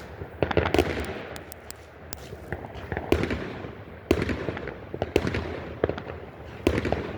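Consumer fireworks going off: a run of sharp bangs and crackles, several close together in the first second, then single bangs about once a second.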